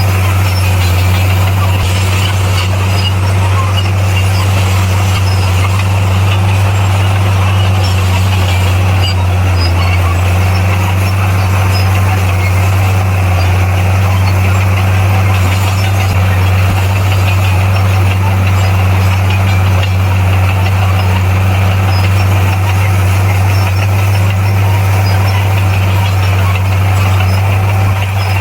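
Heavy diesel earthmoving machine's engine running steadily: a deep, constant drone that holds the same pitch throughout.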